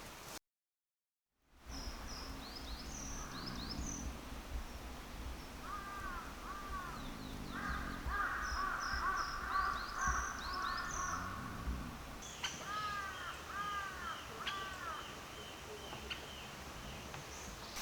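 Wild birds calling: repeated short arched calls in small groups, high thin chirps, and a buzzy call about eight seconds in. A second of complete silence comes just before the birds start.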